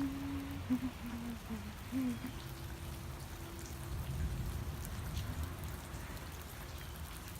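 Steady rain falling, with the patter of scattered drops. A faint low hum-like tone comes and goes in the first couple of seconds.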